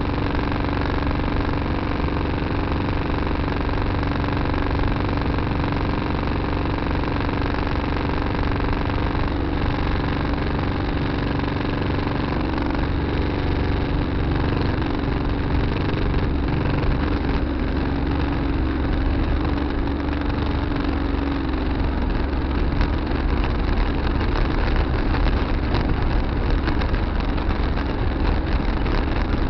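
Tractor engine running steadily, heard from the cab, with a steady hum and more clatter in the second half.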